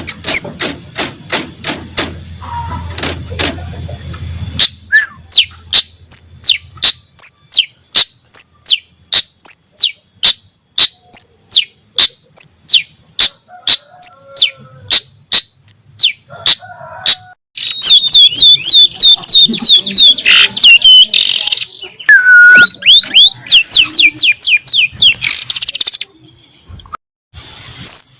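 Long-tailed shrike (cendet) singing loudly in a series of short, sharp, falling notes about two a second, breaking into fast trills in the second half; its song is built from mimicked canary and lovebird phrases.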